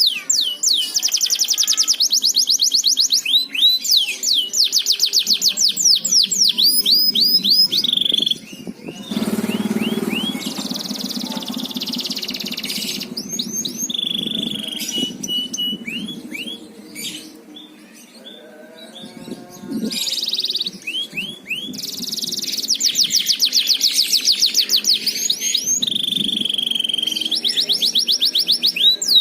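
Domestic canary singing: long rolling trills of rapidly repeated high, downward-sweeping notes, in phrases. Quieter in the middle, then full trilling again.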